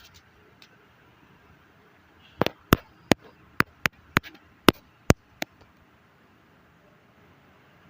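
A quick run of about ten sharp clicks, a third to half a second apart, starting about two and a half seconds in and lasting about three seconds.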